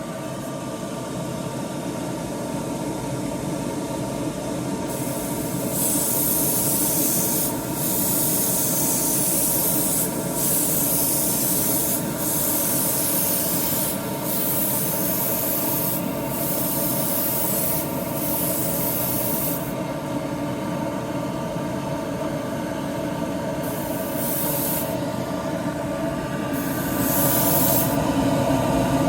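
Airbrush spraying in repeated stretches of hissing air, each a second to several seconds long with short breaks between, over a steady motor hum.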